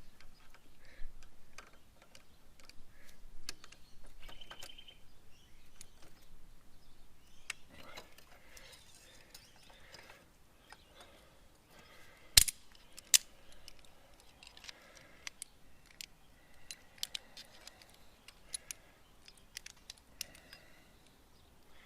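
Hand tools clinking and scraping on metal in scattered light clicks, with two sharp metallic knocks about twelve seconds in, as work goes on at a fork Allen bolt whose head has been rounded off.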